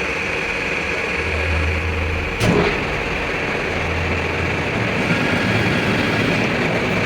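Steady mechanical running noise, with a low hum that swells twice and a single sharp knock about two and a half seconds in.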